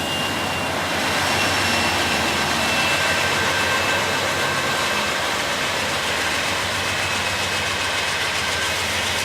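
Freight train of boxcars rolling past, a steady noise of the cars on the rails with a faint high whine over it.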